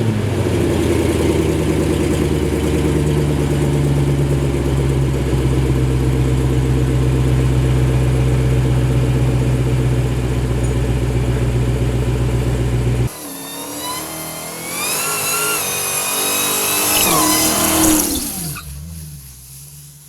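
Dodge Challenger SRT Demon 170's supercharged HEMI V8 held at a steady, loud high-rev note, which cuts off suddenly about 13 seconds in. It is followed by a rising whine that climbs, drops back and climbs again as the car accelerates through the gears, then fades away.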